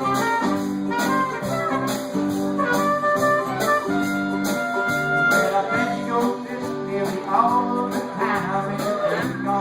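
Live folk band playing a blues song, with a steady rhythmic beat under a pitched melody line.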